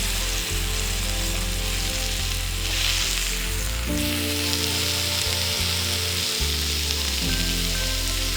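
Food sizzling and frying in a hot pan, a steady dense hiss, over soft background music.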